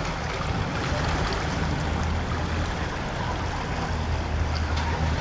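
A vehicle's diesel engine running steadily, with a constant rush of water over it.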